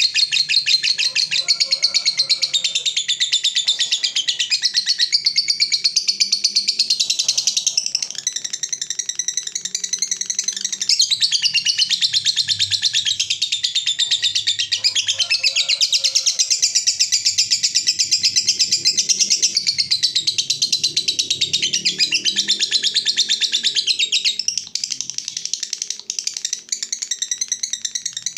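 Lovebird giving its long "ngekek" song: a fast, unbroken chattering trill of high chirps that runs on without pause.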